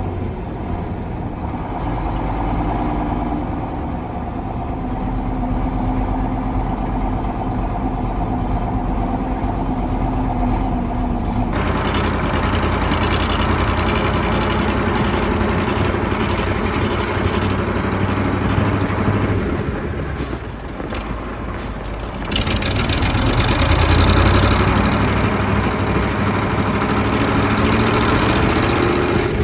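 KAMAZ 4310 6x6 truck's V8 diesel engine running under load as the truck drives off-road, its pitch rising and falling with the throttle. The sound changes abruptly, growing brighter, about 11 seconds in, and a few brief sharp noises come about two-thirds of the way through.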